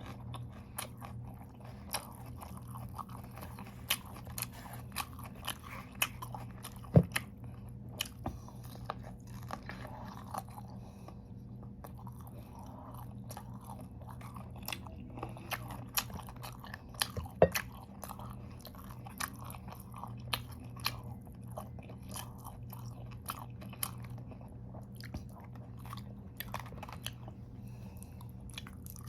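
A person biting and chewing crunchy raw vegetables (lettuce and carrots), with frequent wet crunches close to the microphone. Two bites, about 7 and 17 seconds in, are much louder than the rest. A steady low hum runs underneath.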